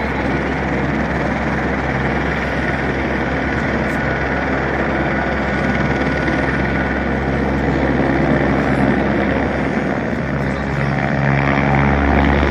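Helicopter engine and rotor running steadily, a loud continuous mechanical noise with a low pulsing hum, growing louder near the end.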